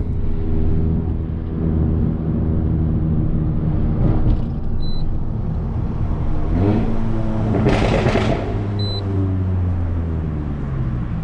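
Volkswagen Golf GTI TCR's turbocharged 2.0-litre four-cylinder with a Milltek 3-inch downpipe and no particulate filter, heard from inside the cabin while driving. It drones steadily, the revs climb about two-thirds of the way through with a short rushing burst, and then they drop back. Two short high beeps come a few seconds apart.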